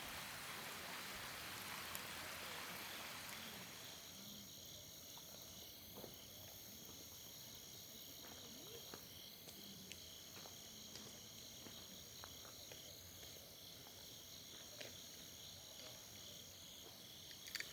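Steady rain hiss that cuts off suddenly about four seconds in, leaving insects trilling steadily in two high-pitched bands, with a few faint ticks.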